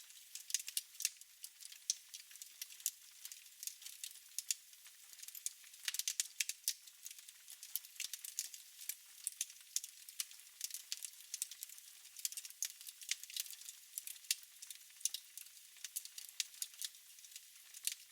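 Wood fire crackling in a fireplace: a steady run of irregular sharp pops and snaps over a soft hiss.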